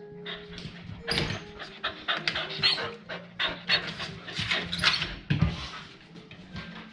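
A dog panting hard, in quick rhythmic breaths of about three a second.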